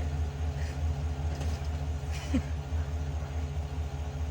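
A motor running with a steady low rumble and an even, fast pulse, with a short rising squeak about halfway through.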